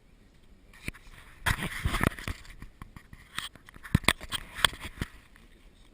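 A scraping rustle about one and a half seconds in, then a few sharp clicks and knocks, the loudest near the end.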